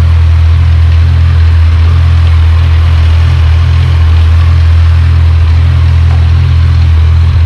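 Kawasaki Z1000R inline-four motorcycle engine idling steadily through its refitted stock mufflers, with a deep, even note and no revving.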